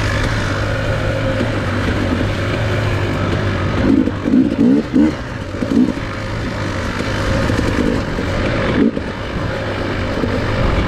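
Enduro dirt bike engine running steadily while riding, with a few short louder bursts about four to six seconds in.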